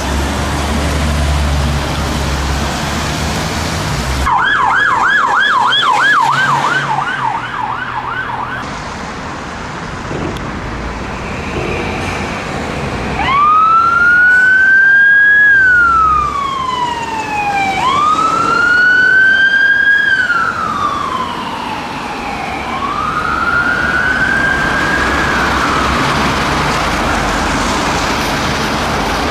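Emergency vehicle sirens in street traffic: a vehicle engine rumbles at first, then a fast yelping warble sounds for about four seconds. After a short gap comes a slow wail, rising and falling in three long sweeps, the first two the loudest.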